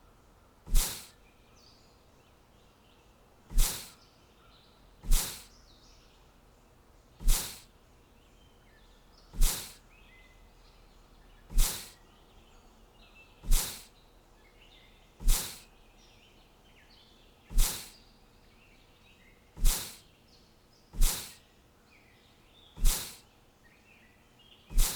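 Sharp, loud clicks about every two seconds, at uneven spacing, each dying away quickly, over faint chirping of small birds.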